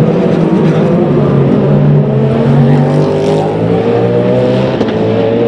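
Race car engine running hard under acceleration, its pitch climbing, dropping at an upshift about two seconds in, then climbing again.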